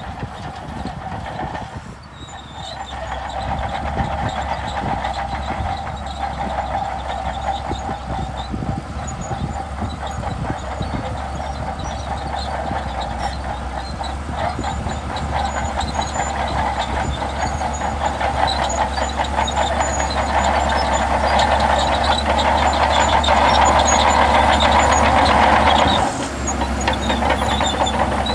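Crawler bulldozer working: its diesel engine running steadily with a clanking rattle, growing louder toward the end and dropping off sharply about 26 seconds in.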